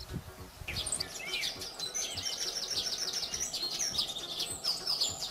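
Sparrow chirping: a rapid, busy run of high chirps that starts about a second in, over faint background noise.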